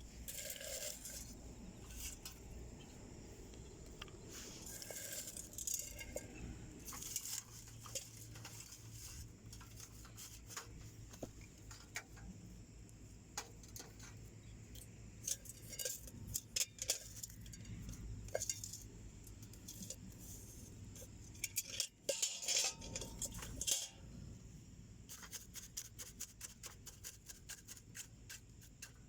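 Small wood fire crackling in a homemade metal wood stove: irregular sharp pops and clicks throughout, with a denser burst of clatter about 22 seconds in.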